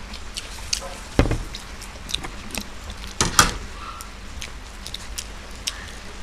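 Eating and food-handling sounds: scattered small clicks and taps from people eating Maggi rolls, with louder knocks about a second in and about three seconds in.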